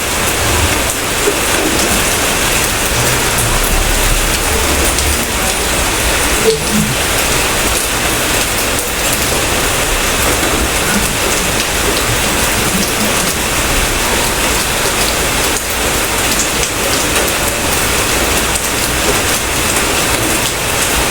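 Steady heavy rain, a dense even patter with scattered drop ticks and one sharper tick about six and a half seconds in. A brief low rumble sounds underneath about three to five seconds in.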